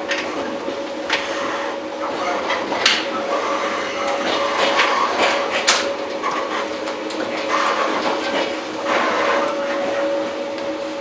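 Inside a JR 115-series electric train car (motor car MoHa 114-102): a steady hum of the car's equipment and running gear, with scattered clicks and knocks from the car body and running gear.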